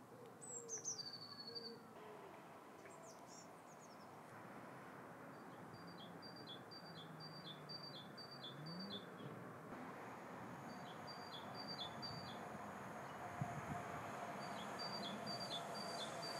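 A small bird calling: a high falling whistle near the start, then three runs of quick repeated high notes, about three a second, over faint steady background noise.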